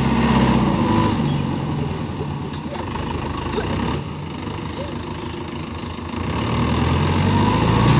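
Diesel engine of a Mahindra Yuvo Tech+ 585 DI tractor running steadily. It fades in the middle and grows louder again toward the end.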